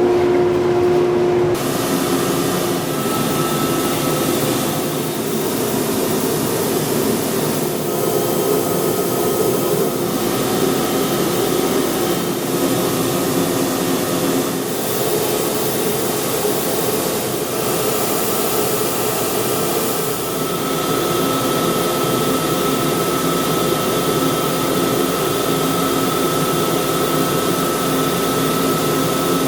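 Belt sander running steadily, its abrasive belt sanding small solid-wood keychain pieces; the sanding hiss sets in about a second and a half in.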